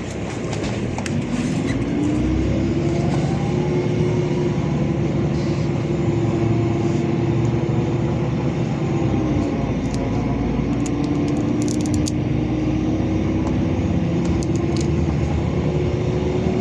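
Interior drive noise of a LiAZ 5292.65 city bus pulling away and accelerating: the engine and drivetrain rumble grows over the first two seconds, and a whine rises in pitch, dips briefly about nine seconds in, then climbs again.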